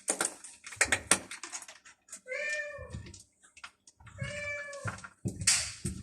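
Hungry stray cat meowing twice, each meow a bit under a second, with an arching pitch. Sharp clicks and a rustling burst come between the meows.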